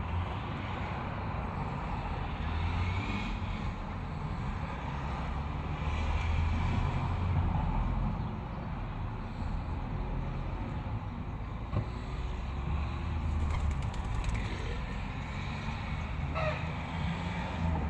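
Outdoor ambience with a steady low rumble that swells and fades, and a few short bird calls over it, the clearest about sixteen seconds in.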